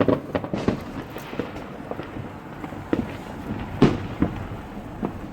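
Fireworks going off: a run of irregular bangs and pops, the loudest about four seconds in.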